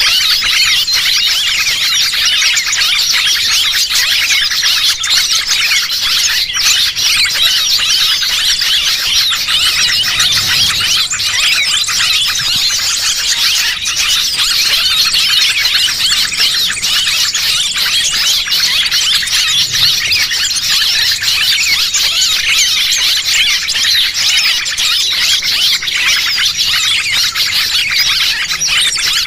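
Dense, unbroken chorus of many small birds chirping and squealing rapidly at a high pitch, a lure recording (pikat) for attracting small birds.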